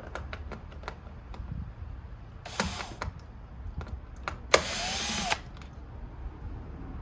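Electric drill with a screwdriver bit running in two short spurts, the second lasting about a second, among small clicks and taps of parts being handled.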